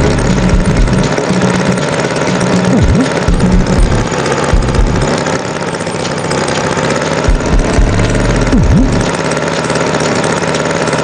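Cartoon tractor engine sound effect running steadily, with stepped low bass notes underneath.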